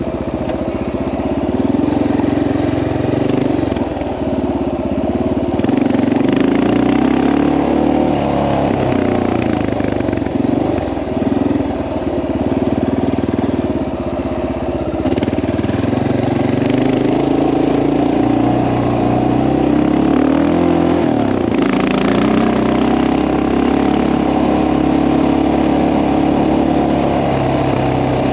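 Single-cylinder engine of a Honda XR650L enduro motorcycle running under way, its note rising and falling with the throttle.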